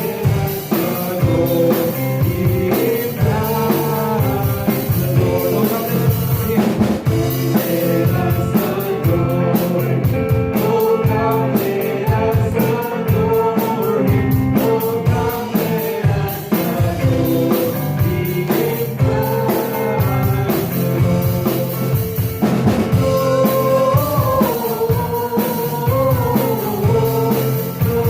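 Live church praise band playing a hymn: singing over a drum kit and guitar, with a steady beat.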